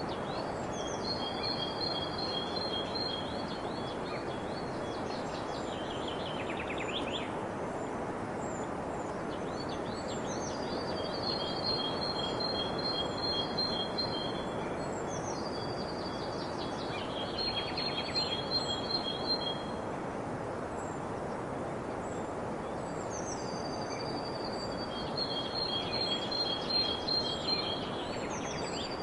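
A songbird singing four phrases about six seconds apart, each a run of high, rapidly repeated notes ending in a fast rattling trill, over a steady rushing background noise.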